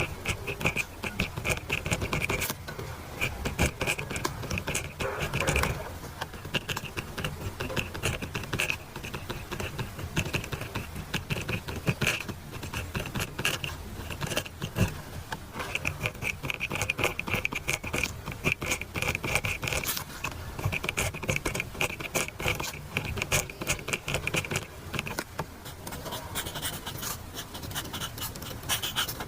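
Pen scratching across paper in quick, continuous strokes as someone writes by hand, with a few brief pauses.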